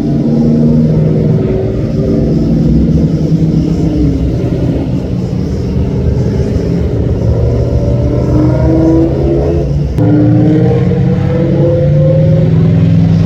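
Engines of classic cars running as they cruise past one after another, with pitches rising as some rev and pull away. The sound jumps abruptly about ten seconds in.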